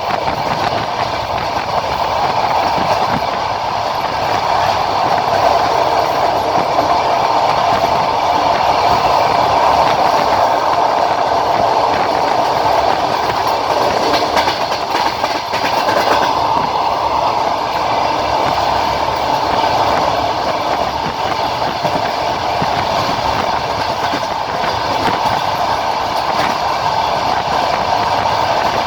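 Passenger train running, heard from inside the carriage at the window: a steady rumble of wheels on the rails, with the clickety-clack of the rail joints and a run of sharper clacks about halfway through.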